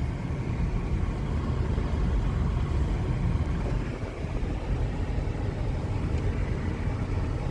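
Steady low rumble of a car in motion, heard from inside the cabin: engine and tyre noise with no distinct events.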